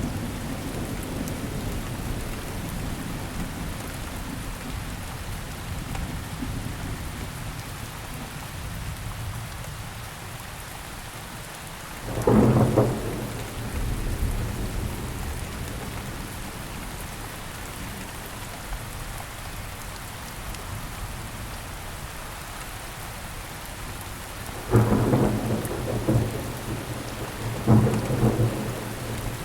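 Steady rainfall hissing on surfaces, with thunder: a low rumble under the rain, then three sudden louder thunder claps, one about twelve seconds in and two close together near the end.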